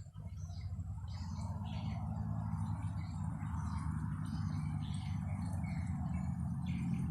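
Small birds chirping in short, scattered calls over a steady low rumble of wind on the microphone.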